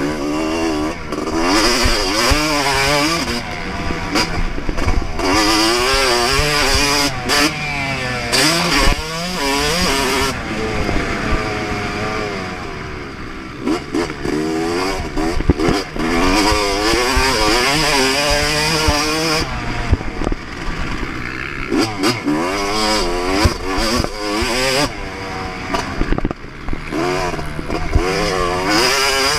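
Onboard sound of a 2024 Yamaha YZ250 single-cylinder two-stroke motocross bike ridden at full throttle. The revs climb and fall again and again, with brief drops where the throttle is shut.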